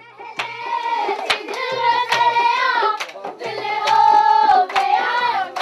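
Children's voices singing together in long held notes, with steady hand claps keeping the beat.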